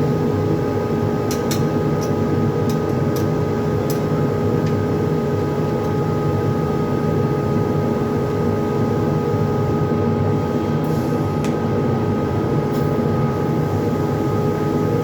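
Robotic TIG welding cell running: a steady hum and hiss with a few steady tones, and a handful of short clicks in the first few seconds and again a little past the middle.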